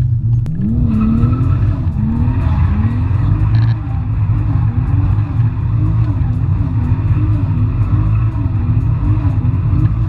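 Turbocharged Toyota 2JZ straight-six in a BMW E36 running hard under heavy low rumble, its pitch swinging up and down over and over, about once a second.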